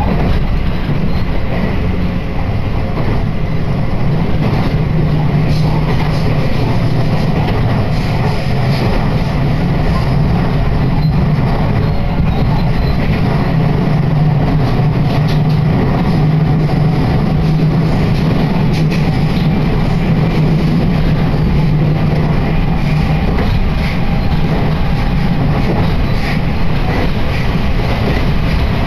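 Train running noise heard from inside a passenger car: a steady low rumble and hum with faint scattered wheel clicks, the hum dropping away near the end.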